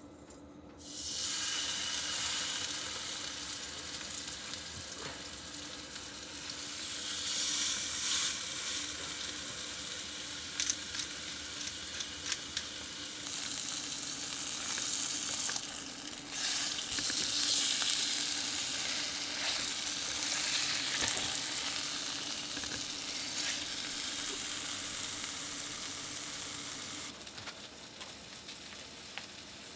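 Steak sizzling in a hot frying pan, starting suddenly about a second in as the meat goes down, with spitting crackles through the frying, and easing a little near the end.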